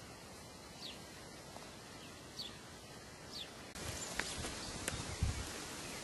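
Quiet outdoor background with three short falling bird chirps in the first half. About two-thirds through it turns louder and rougher, with a few sharp clicks and a low thump.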